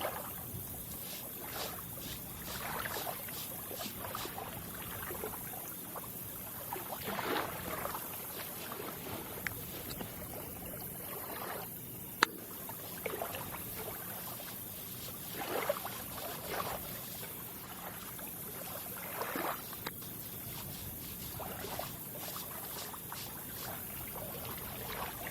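Water lapping and splashing in soft, irregular swishes every few seconds, with one sharp click about twelve seconds in.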